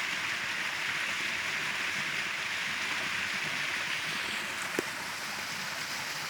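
Creek water rushing over rocks, a steady hiss, with one brief click about five seconds in.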